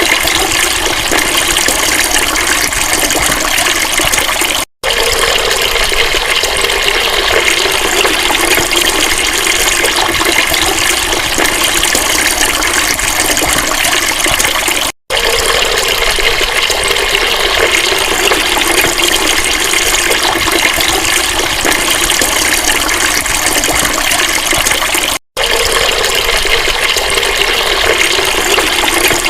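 Steady rush of flowing water, loud and even throughout, cut off for a split second three times at roughly ten-second intervals.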